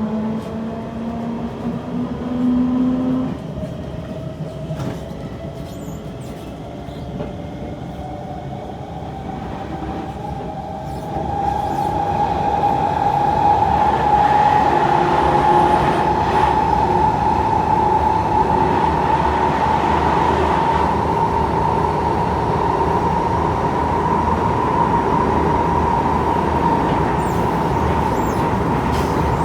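Traction motors of a Kawasaki C151 metro train whining as it accelerates. Several tones climb steadily in pitch, then level off into a loud steady whine with rail and running noise as the train reaches speed. The uploader calls it a bad motor profile.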